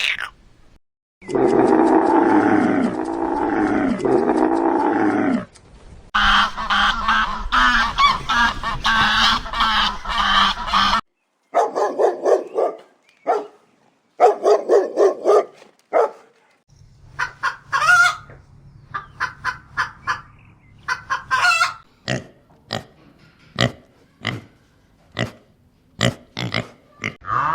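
A string of separate animal-call recordings cut one after another. A few seconds of one pitched call is followed by a dense stretch of calling, then short bursts, and then a long run of many quick, short calls.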